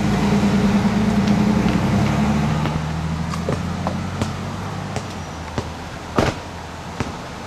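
A car engine running with a steady low hum, loudest at first and easing off after a few seconds. A sharp thump about six seconds in, with a few faint clicks around it.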